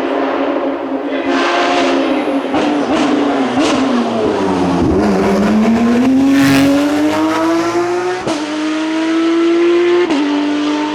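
Racing car engine at full race pace: its pitch falls as it slows about midway, then climbs steadily under acceleration, broken by two quick gear changes near the end.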